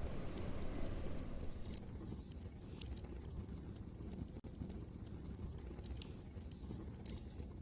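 Wood fire crackling, with irregular sharp pops and snaps, over a steady low rumble of wind. A split-second gap in the sound comes about four and a half seconds in.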